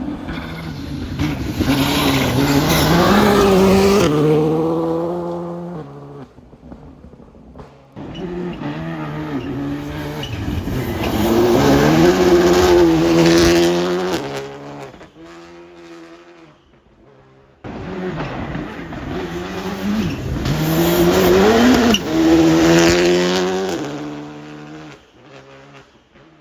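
Rally cars going past one after another, three in turn, each engine revving hard and climbing in pitch through the gears as it accelerates by.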